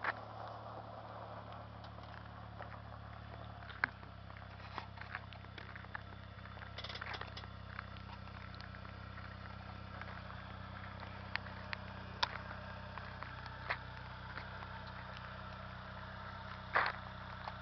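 Chevrolet Corsa hatchback's engine idling steadily, its low note shifting slightly about four seconds in. A few light clicks sound over it, and a louder knock comes near the end.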